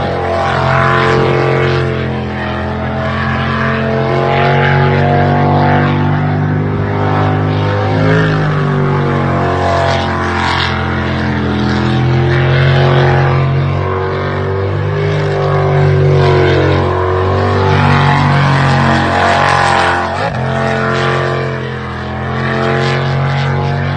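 Racing jet boat's LS V8 engine running hard, its pitch rising and falling as the throttle is worked on and off.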